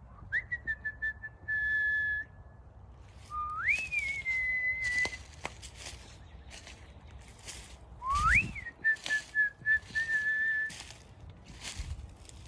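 A clear whistle sounds three times. Each note glides quickly up, then holds a steady note for one to two seconds, broken into short pieces in the third.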